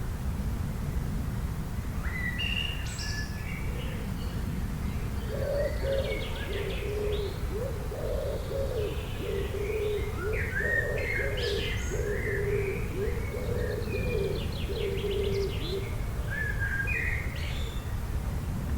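Several wild birds chirping and trilling with short high calls, with a lower repeated cooing call joining in for much of the middle stretch, over a steady low rumble.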